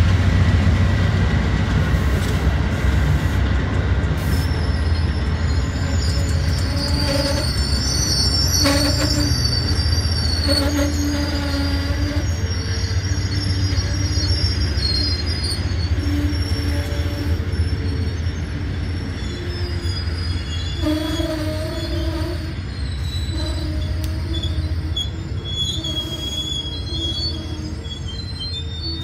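Passenger train cars rolling slowly past: a steady low rumble of steel wheels on rail, with intermittent high-pitched wheel squeal strongest about a third of the way in. The rumble slowly fades as the train moves on.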